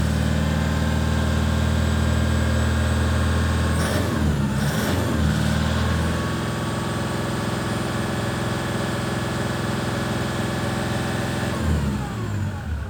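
Toyota Hilux 3.0 litre diesel engine running steadily. Its note dips and glides briefly about four seconds in, then settles back to an even running note.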